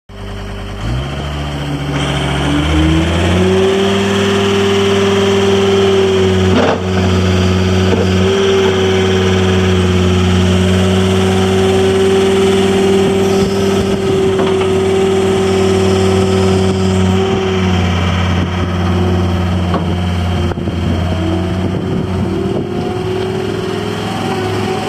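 Diesel engine of a John Deere 328D skid steer loader running. It speeds up over the first few seconds to a steady high speed and holds there. About two thirds of the way in it drops back to a lower speed, then revs up again near the end.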